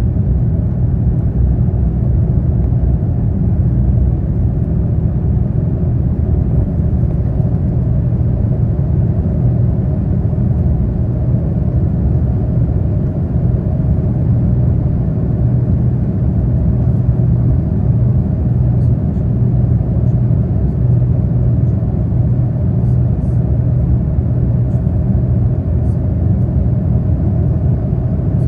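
Boeing 787-9 Dreamliner's jet engines running at low thrust: a steady low rumble with a faint hum, holding level with no spool-up.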